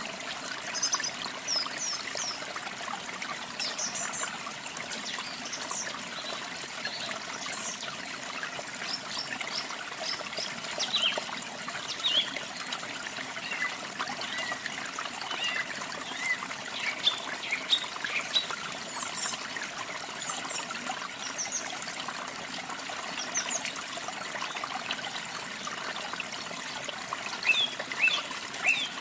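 Steady rush of running water, with small birds chirping in short high calls scattered over it, coming more often near the end.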